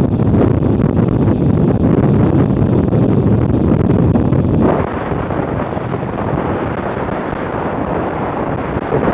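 Wind rushing over the microphone of a camera on a moving BMW R100RT motorcycle, with the bike's air-cooled flat-twin engine running beneath it. A little under five seconds in the noise drops somewhat and stays quieter until it rises again near the end.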